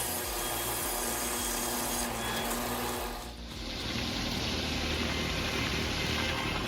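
Large circular sawmill with a 56-inch blade running steadily as it cuts through a cottonwood log. The sound dips briefly about halfway through, then carries on with less hiss.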